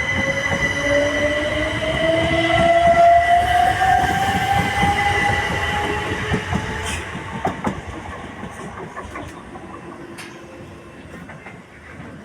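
Train passing over the level crossing and moving away, with a whine rising steadily in pitch and wheels clicking over the rail joints. It is loudest about three seconds in and then fades.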